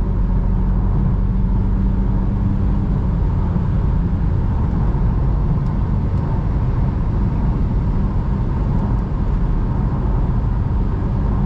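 Steady road and engine noise of a BMW cruising at highway speed, heard from inside the cabin.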